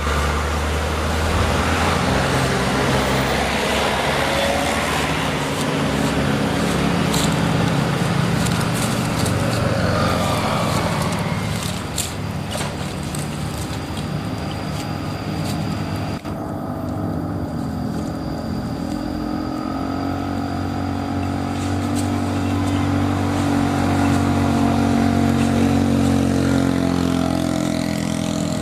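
Toy truck's motor running steadily, its pitch shifting up and down now and then, with a few sharp clicks.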